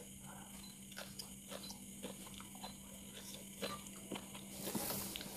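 Close-up chewing of raw leaves with sambal: scattered small wet clicks and smacks of the mouth, with a breathy hiss of air near the end, over a steady low hum.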